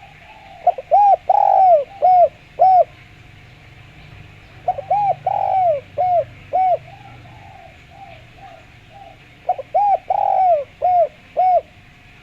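Spotted dove (derkuku) cooing: three phrases about four seconds apart, each a quick run of about five low, hooting coos with one longer, drawn-out note near the start. A faint steady hiss runs under the calls.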